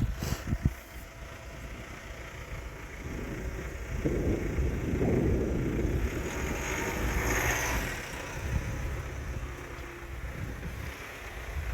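Engine running, with wind buffeting the microphone; it gets louder about four seconds in.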